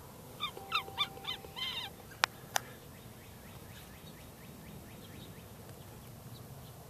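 A bird calling: a quick run of about five short, pitched notes, then two sharp clicks, followed by faint rapid chirping.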